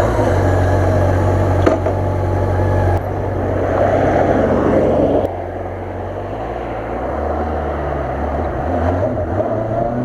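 Honda CB400 Super Bol d'Or's inline-four engine running. It is loud and steady at first, drops abruptly in level twice, and its pitch shifts in the second half.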